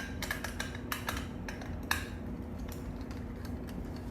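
Small hard toys clicking and clinking as they are handled and set down. A quick cluster of clicks comes at first and a sharper clink about two seconds in, over a steady low hum.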